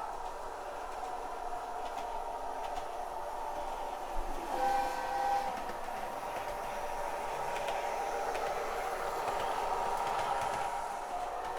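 Sound decoder of a KATO HO-scale JR East Kiha 110 diesel railcar model playing its running sound through the model's small onboard speaker. The sound is steady, with a brief tone about five seconds in.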